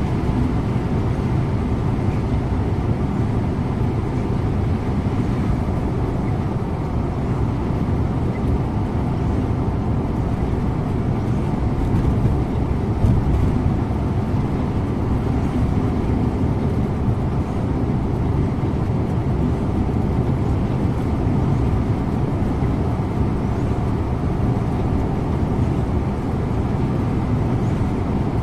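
Scania InterLink bus driving along at a steady pace: a continuous even rumble of engine and tyre noise.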